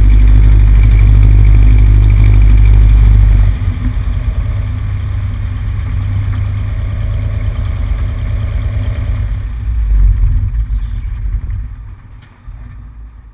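Cessna 150's four-cylinder piston engine running loud and steady, then throttled back about three and a half seconds in to a lower, uneven idle, before dying away near the end as the engine is shut down.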